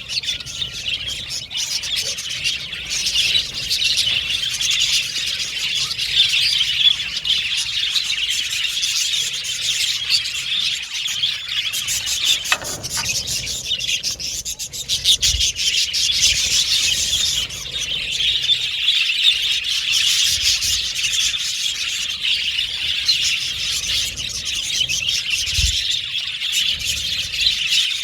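A flock of budgerigars chirping and chattering continuously, many rapid, overlapping chirps and warbles, with a brief lull about halfway through.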